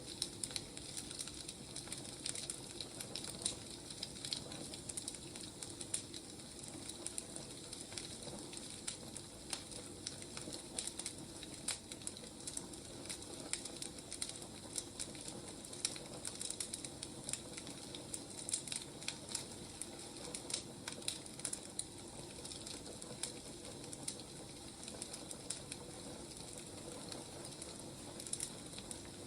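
Firewood burning, crackling steadily with many small, irregular pops and snaps over a soft hiss.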